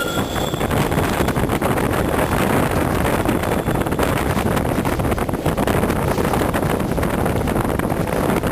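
Wind buffeting the microphone over the running of the Petit Train Jaune, a metre-gauge electric train, with a thin wheel squeal fading out in the first half-second.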